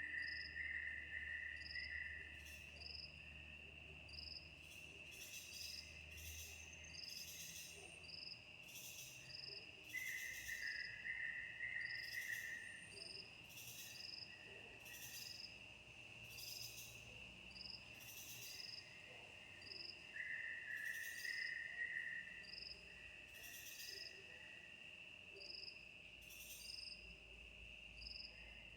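A chorus of insects calling: a steady high-pitched drone, over which a call of about two seconds recurs roughly every ten seconds, along with a regular short ticking about once a second.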